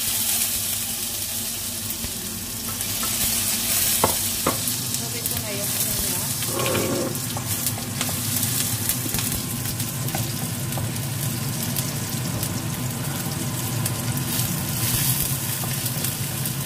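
Chopped onion sizzling steadily in hot oil in a nonstick wok while a wooden spoon stirs it, with a couple of sharp knocks about four seconds in.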